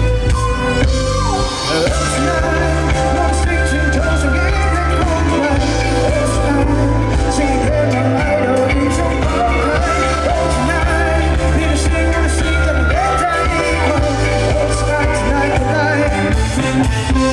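A live pop band playing a song, with a singer's melody over steady bass.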